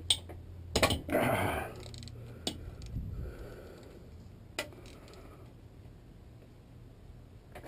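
Sharp metallic clicks and knocks of hand tools working bolts loose on a transmission case, a few isolated strikes spread over the seconds, with a short strained grunt about a second in.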